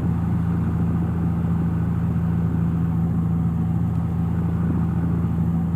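Cessna 172's piston engine and propeller running steadily in flight, heard inside the cockpit as an even low drone with no change in power.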